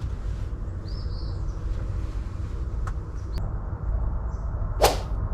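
Outdoor ambience with a steady low rumble, a few short bird chirps, two faint ticks and one sharp click or knock near the end, which is the loudest moment.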